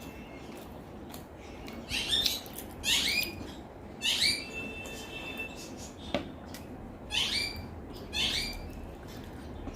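Close-miked eating sounds: wet chewing, lip smacks and mouth clicks come in short, sharp bursts about once a second, with one sharper click near the middle.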